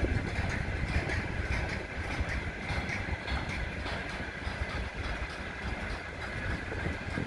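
Freight train wagons rolling past on the rails: a steady rumble with light, frequent clicking from the wheels.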